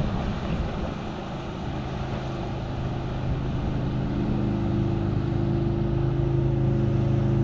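Motorboat engine running on the lake, a steady hum that grows louder over the last few seconds as the boat comes closer.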